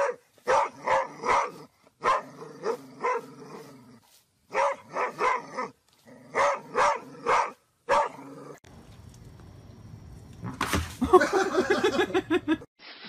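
A large dog barks loudly in short groups of three or four, again and again. After a cut, another dog gives a rapid run of barks near the end.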